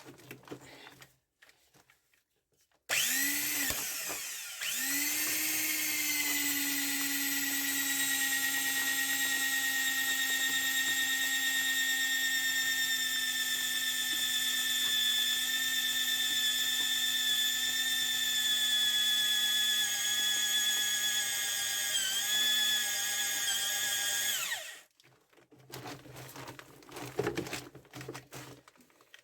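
Handheld electric drill boring an anchor-point hole. It starts about three seconds in, stops briefly, then runs with a steady whine for about twenty seconds before stopping. It starts up again at the very end.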